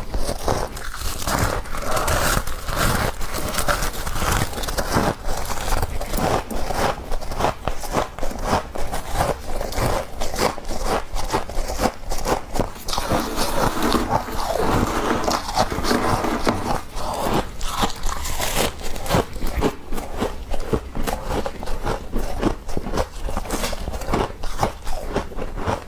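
Soft, fluffy frost being scooped and crunched, a steady dense crackling and scraping of many small ice crystals.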